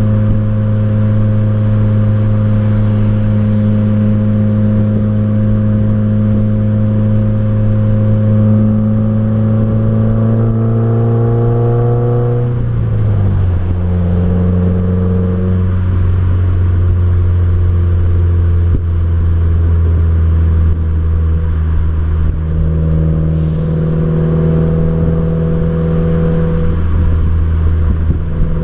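2015 Subaru WRX's turbocharged 2.0-litre flat-four exhaust droning while cruising on the road. The engine note climbs gently, drops sharply just under halfway through as at a gear change, then runs on lower and steady with a couple of small rises, over road and wind noise.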